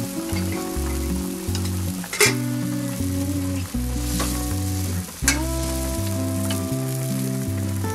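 Fish fillets sizzling and bubbling in stock in a wok, with a few clinks of the ladle against the wok as the fillets are basted, over background music with steady bass notes. The stock is simmering down into the fish, the braising stage of guo ta cooking.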